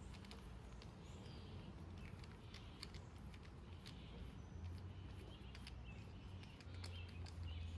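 Faint scattered clicks and light taps of hands and a tool working the cap off a sewage sump pump, over a low steady hum.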